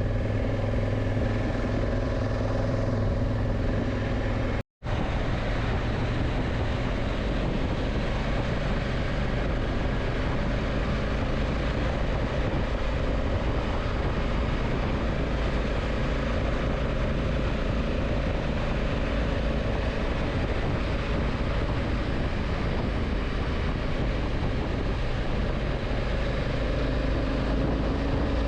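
Motorcycle running at speed, a steady engine drone mixed with heavy wind rush, cut off briefly about five seconds in.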